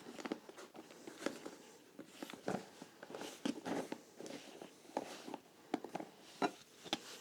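Hand tools working on a leather shoe heel, with irregular small clicks, knocks and scrapes as the heel is prised and pulled apart.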